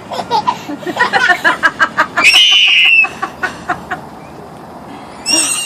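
A child's excited laughter in quick bursts, then a long high-pitched squeal about two seconds in and a shorter squeal near the end.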